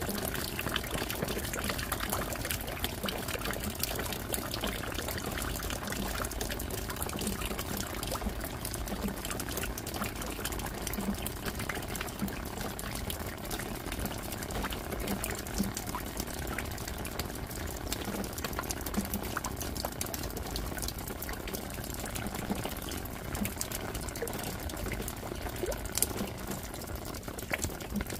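Steady rain falling: an even wash of water noise with many separate drops ticking through it.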